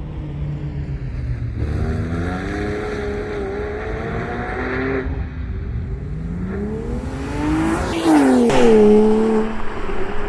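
Porsche Cayman R's flat-six engine under hard acceleration: the revs climb, dip about five seconds in, then climb again as the car comes closer. It passes loudest about eight seconds in, its pitch dropping as it goes by.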